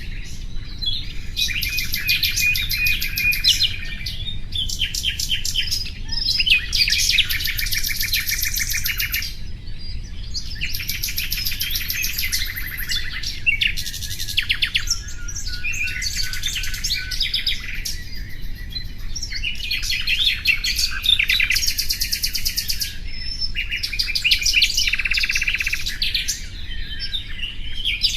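Common nightingale singing: phrases one to three seconds long of rapid repeated notes and trills, with short pauses between them, over a faint steady low rumble.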